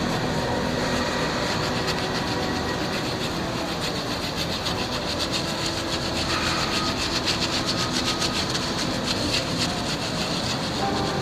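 Steady mechanical rumbling noise with rapid light rattling clicks.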